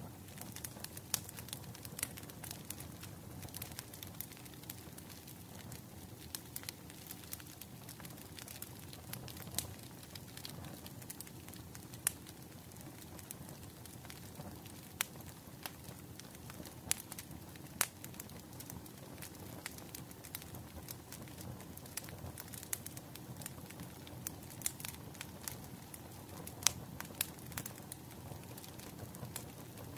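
Wood fire crackling: irregular sharp pops and snaps of burning firewood, several a second, over a steady low rumble of the flames.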